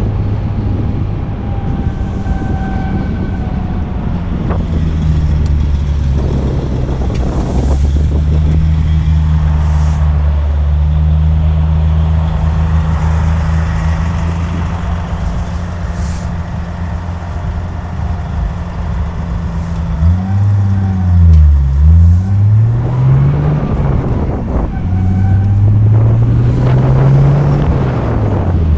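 A Nissan RB25DET turbocharged inline-six engine running at a steady pitch. In the last third its pitch dips and climbs several times, and that stretch is the loudest.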